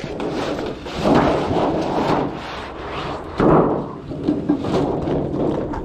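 Aluminum sheet metal being handled and bent on a metal brake: a rumbling, flexing sheet with heavy thumps about a second in and again past the middle.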